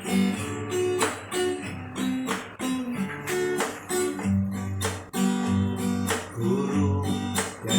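Acoustic guitar strummed in a steady rhythm, chords ringing over bass notes.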